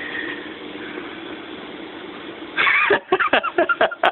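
A pet parrot vocalizing. A low steady hum runs for about two and a half seconds, then comes a short loud squawk-like call and a quick run of clicks.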